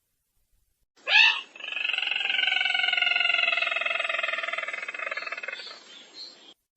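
Sintar merah bird call from a lure recording: one sharp rising note about a second in, then a long pulsing call that slides slowly down in pitch for about four seconds and fades out.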